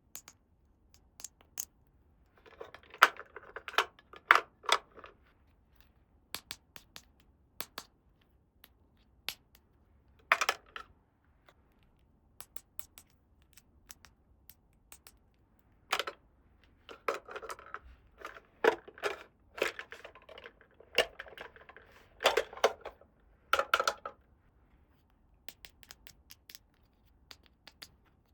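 Small plastic toy pieces being handled and set down: sharp clicks and taps, with spells of rustling and scraping in between.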